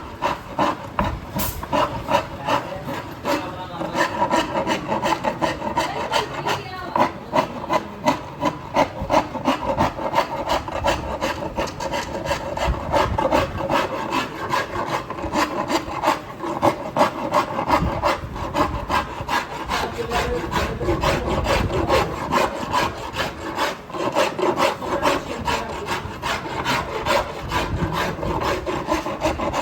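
Wooden cricket bat being rasped by hand, in quick back-and-forth strokes of about three a second.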